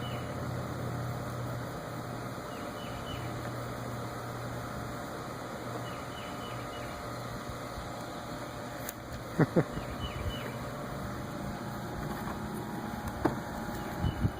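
Steady low mechanical hum, with two sharp knocks in quick succession about nine and a half seconds in and a lighter one near the end.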